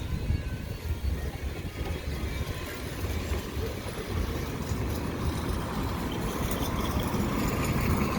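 Wind rushing over the microphone and road noise from a moving electric motorcycle, a steady low rumble that grows slightly louder toward the end.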